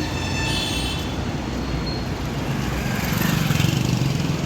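Steady road traffic running close by. A vehicle passes louder about three seconds in, and a brief high-pitched tone sounds near the start.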